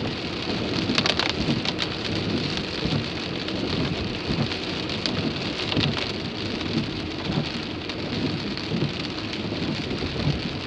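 Heavy rain beating on a car's windshield and body, heard from inside the car, as a steady patter with occasional sharper drop hits.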